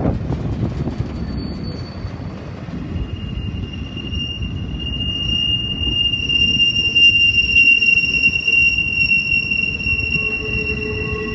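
Train rolling past with a steady low rumble; about three seconds in, a high, steady wheel squeal sets in and holds.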